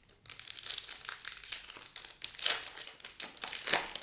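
Foil trading-card pack wrapper crinkling and being crumpled by hand, with louder crackles about halfway through and again near the end.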